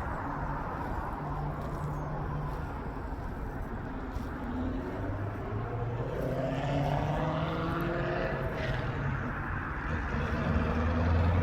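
A motor's engine running steadily, rising in pitch about halfway through and then holding, and growing louder near the end.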